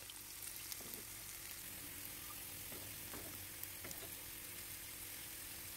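Sliced shallots and garlic frying in hot oil in a pan: a faint, steady sizzle with a few small pops.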